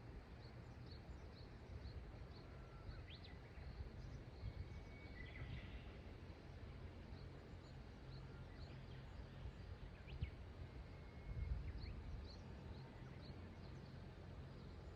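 Faint steady rush of a river with a low rumble underneath, and small birds calling: runs of short high chirps every few seconds and a few brief whistled notes.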